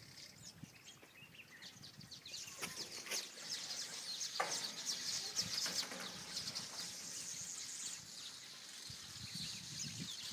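Many wild birds chirping and singing together in a busy chorus of short, high calls and trills, growing denser after the first couple of seconds.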